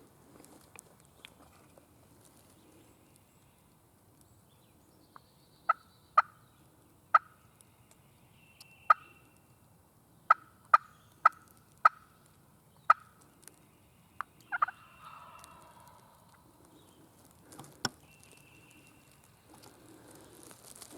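Turkey clucking: about a dozen short, sharp single notes at irregular intervals, with one slightly longer, sliding note about two-thirds of the way through.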